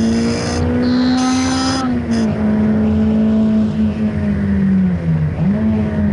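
Honda Integra DC5's four-cylinder engine running hard on track, heard from inside the cabin. Its note climbs slowly and then holds, dips and picks up again about five seconds in. High squeals come in short bursts in the first two seconds, tyres squealing as the car comes out of a corner.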